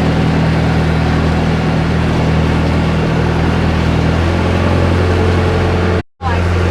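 Engine of a motorized outrigger canoe (bangka) running steadily under way, with water and wind noise. Its note shifts about four seconds in, and the sound drops out for an instant near the end.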